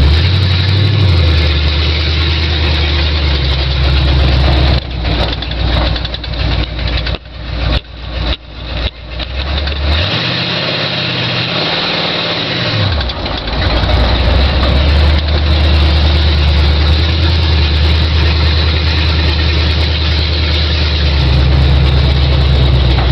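1974 Ford F100's 351 Windsor V8, breathing through open headers, running as the truck is driven. It is loud and steady, turns uneven for a few seconds, then a rev rises and falls about ten seconds in before it settles back to steady running.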